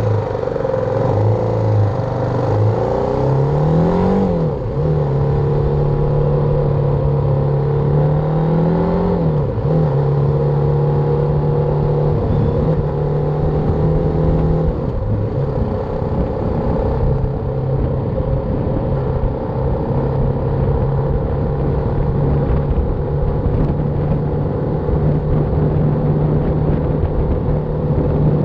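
BMW G310R's single-cylinder engine running under way, its pitch rising and dropping back twice in the first ten seconds as it revs and shifts, then holding a steady cruise with a constant rumble underneath.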